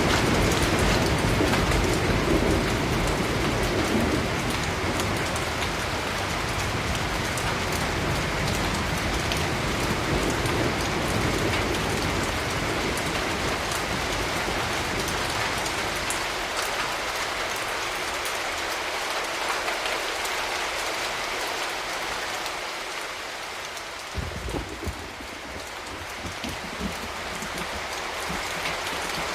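Steady rain falling, an even hiss of drops. A low rumble of thunder under it dies away over the first half, and a few soft low knocks come about two thirds of the way in.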